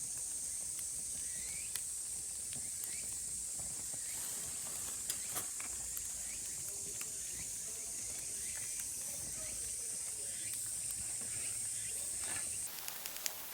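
Cicadas calling in a steady, high-pitched chorus that cuts off abruptly near the end, with scattered faint clicks.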